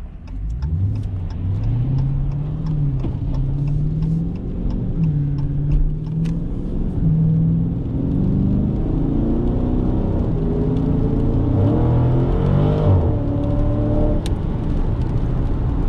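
Dodge Challenger Scat Pack's 392 HEMI V8 accelerating on its stock exhaust, rising in pitch several times with dips between as it goes up through the gears. The pitch drops off sharply about thirteen seconds in as it comes off the throttle.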